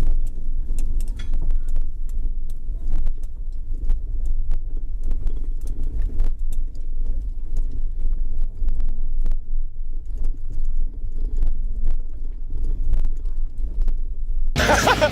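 Low rumble of a vehicle moving over rough ground, with scattered knocks and rattles throughout. Near the end a loud rushing noise suddenly takes over.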